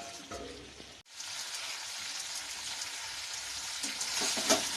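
Chicken and potato curry masala sizzling as it fries in a pan; the sizzle starts abruptly about a second in. Near the end, a few knocks of a spoon stirring in the pan.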